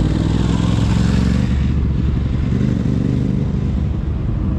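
Motorcycle engine running close by, steady and low, with a louder rushing swell in the first couple of seconds that fades away.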